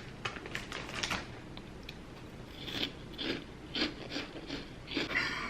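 A person chewing crunchy spicy chips close to the microphone: a run of short crunches, most of them in the second half.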